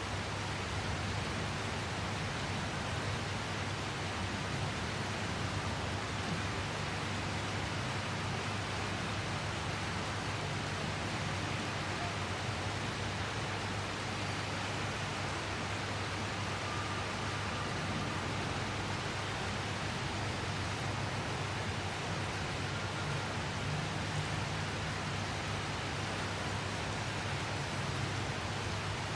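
Steady rainfall, an even hiss that does not let up, with a low steady hum underneath.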